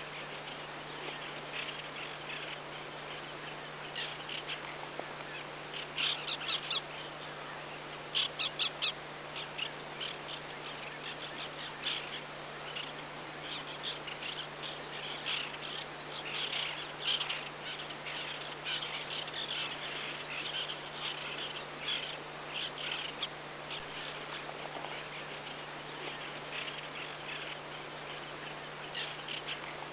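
White-winged black terns calling: many short, harsh notes, some in quick runs of four or five, coming most thickly through the middle. A steady low hum runs underneath.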